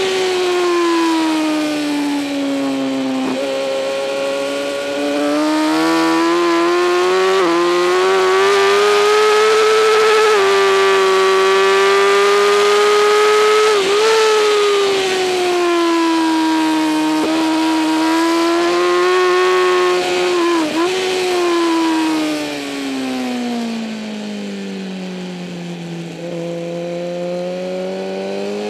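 2008 Kawasaki ZX-10R's inline-four engine at racing speed, its pitch swelling and sagging with brief sharp dips at the gear changes. In the latter part it falls steadily as the bike slows, then climbs again near the end.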